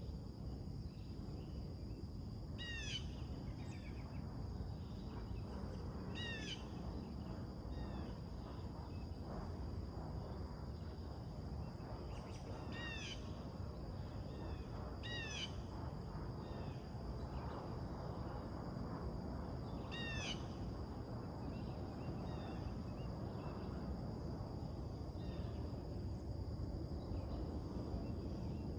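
A bird repeating a short, downward-sliding call every few seconds, with fainter chirps in between, over a steady low background rumble.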